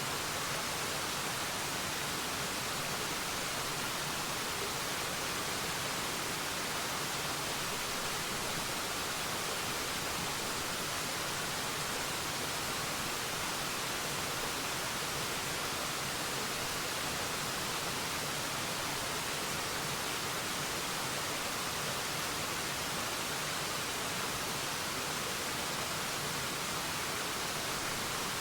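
Waterfall: water falling and splashing in a steady, unbroken rush, with no single splash or pause standing out.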